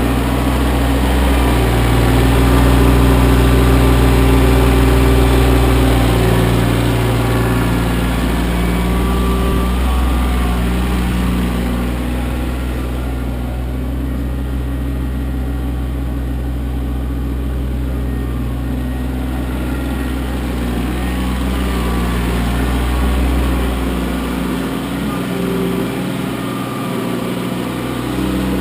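Kioti CK25 compact tractor's three-cylinder diesel engine running steadily as it works, its pitch shifting a few times, with a drop in the deep rumble near the end.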